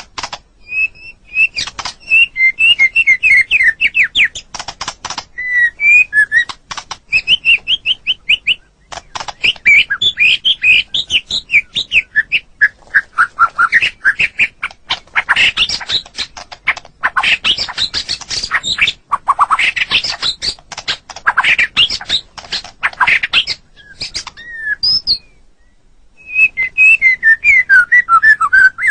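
White-rumped shama singing a long, varied song. It mixes quick runs of repeated whistled notes, rising and falling phrases and harsh rattling chatters, with a brief pause about three-quarters of the way through.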